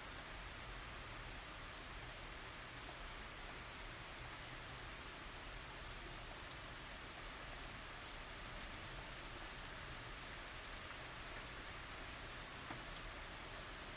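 Steady tropical rain falling, an even hiss with many small drop ticks and no thunder.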